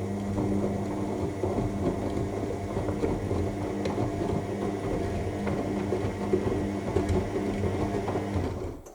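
AEG L7FE7461BI washing machine drum turning in the main wash: a steady motor hum with the laundry tumbling inside, cutting off shortly before the end as the drum pauses.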